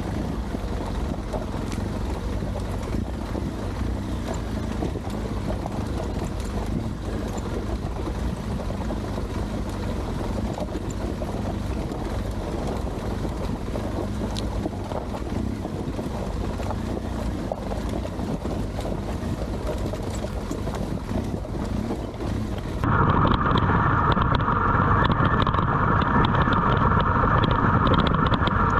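Adventure motorcycle engine running steadily while under way. About 23 seconds in, the sound changes abruptly and gets louder, with a strong hiss in the middle range.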